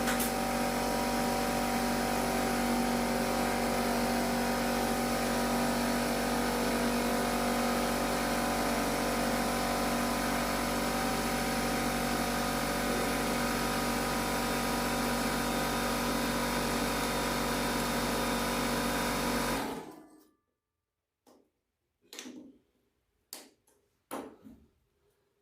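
A steady machine drone with a constant hum, like an electric motor running, that cuts off abruptly about twenty seconds in, followed by a few faint clicks.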